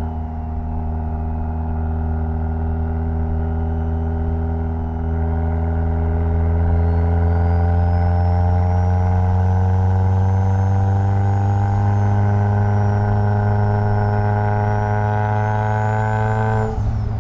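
Mitsubishi Lancer Evolution X's turbocharged 2.0-litre four-cylinder engine under a long, gradual rise in revs, then the revs drop abruptly near the end.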